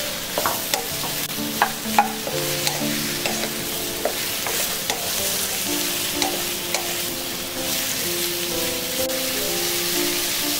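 Sliced zucchini sizzling in oil in a frying pan as it is stir-fried, with scattered sharp clicks, most of them in the first few seconds.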